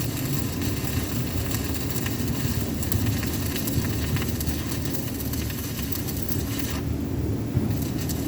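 Electric arc welding crackling over a steady low hum, the crackle stopping briefly about seven seconds in before the arc is struck again.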